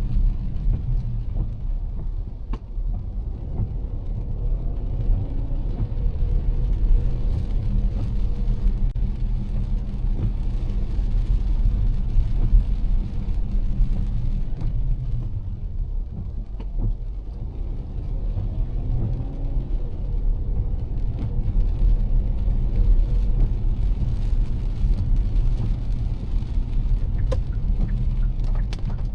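A car driving on rain-soaked roads in heavy rain: a steady low rumble of engine and tyres with a lighter hiss of rain. A faint tone rises and falls twice.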